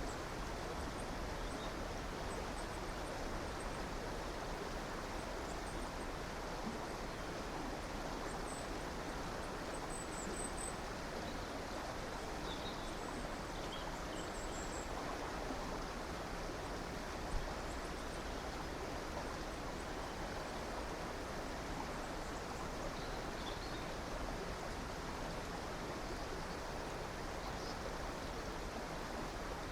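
River water flowing with a steady rushing sound, with faint, high little bird chirps scattered through it.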